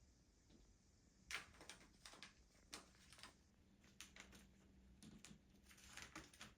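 Faint scattered clicks and short scratchy sounds from pet cockatiels at rest, coming in irregular clusters after about a second.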